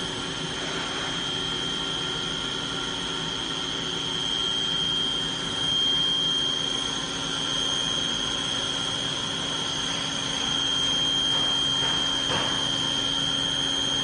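CNC machine spindle running at constant speed while machining aluminium profile, giving a steady high-pitched whine over a mechanical hum.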